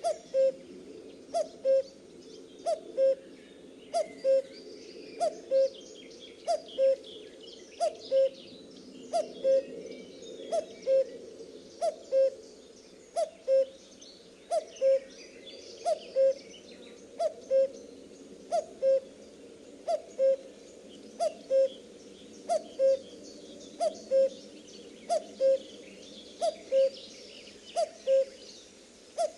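Common cuckoo calling its two-note "cuck-oo", a higher note falling to a lower one, repeated steadily about every second and a half. Other small birds chirp faintly behind it.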